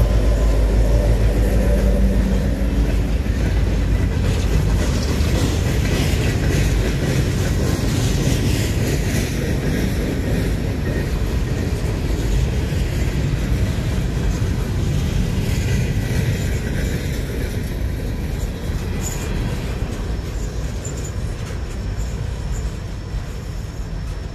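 An RJ Corman freight train passing. The locomotive's diesel engine drums loudly for the first few seconds and fades, then the rail cars roll by with a steady clatter of wheels on rail that slowly gets quieter.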